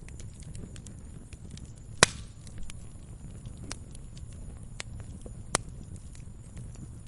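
Wood fire crackling in a fireplace: a low steady rumble of flames with scattered small crackles, a sharp loud pop about two seconds in and another a little after halfway.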